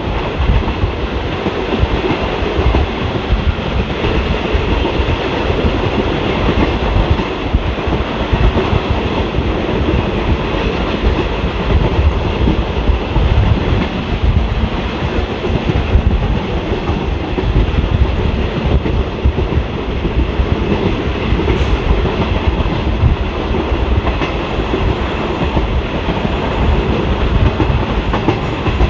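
Indian Railways ICF passenger coach running steadily along the track, with a continuous rumble and the clatter of its wheels over the rails.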